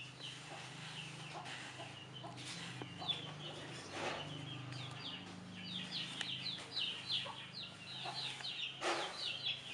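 Birds calling in the background: a run of short, high, falling chirps that grows busier through the second half, over a faint, steady low hum.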